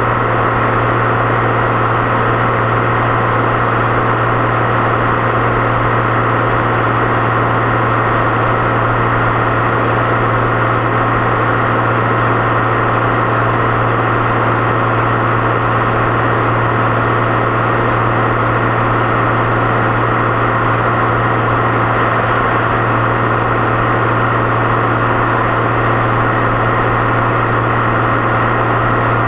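Deutz-Fahr 6.61 tractor's turbocharged diesel engine running at a steady, unchanging pitch and load while driving along, with a constant low drone.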